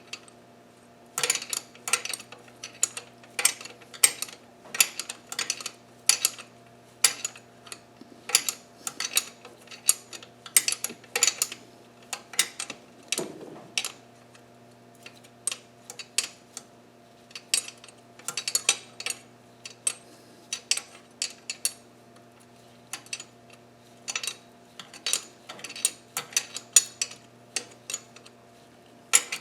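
Metal hand tools and engine parts clinking and tapping: irregular sharp clicks, some in quick clusters, with short pauses between.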